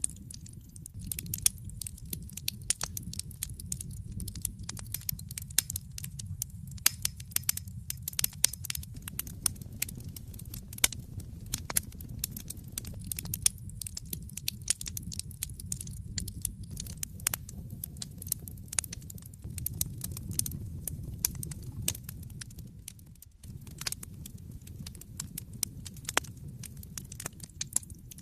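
Wood fire in a fireplace crackling: dense, irregular snaps and pops over a steady low rumble that drops away briefly about 23 seconds in.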